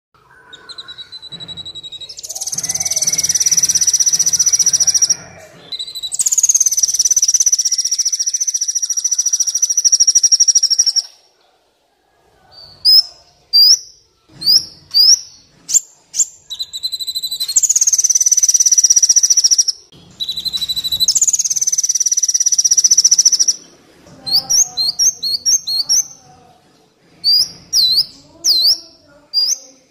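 Kolibri Wulung sunbird song: long high ringing trills of several seconds, each starting with a falling sweep, alternating with runs of sharp quick chirps and rapid downward-swept notes.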